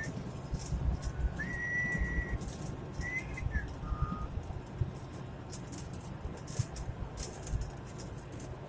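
A person whistling a few short notes over the steady low rumble of a truck cab on the road. The whistling stops about four seconds in, leaving only the road and engine rumble.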